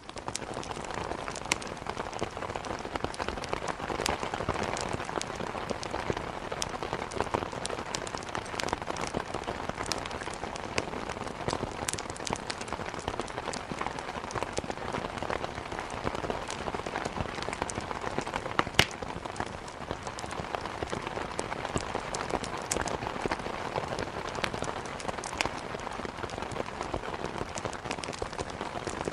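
Steady heavy rain hitting a surface, an even hiss with many sharp ticks and pops scattered through it; the loudest pop comes about 19 seconds in.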